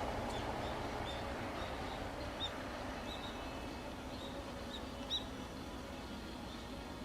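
Small bird giving short high chirps, about a dozen scattered through, one a little louder about five seconds in, over a steady outdoor hiss.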